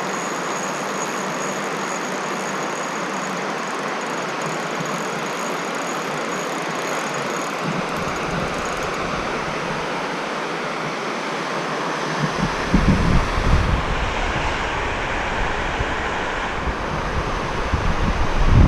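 Steady rush of flowing stream water. From a bit over halfway through, gusts of wind buffet the microphone with low rumbles.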